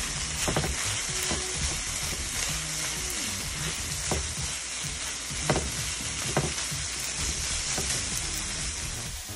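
Ground beef with chopped tomato, celery and onion sizzling in a nonstick frying pan as it is stirred and turned with tongs. A steady hiss runs throughout, broken by several sharp clacks of the tongs against the pan.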